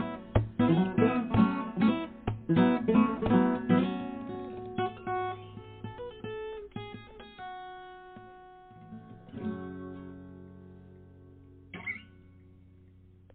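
Acoustic guitar closing a song: strummed chords thin out to a few picked notes, then a last chord rings and fades, with a short sharp sound just before it stops.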